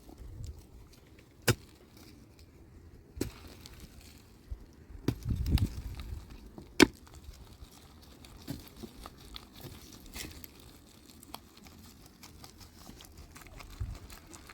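A few sharp knocks or clicks, spaced irregularly over several seconds with the loudest a little past halfway, and a short stretch of low rumbling noise just before it.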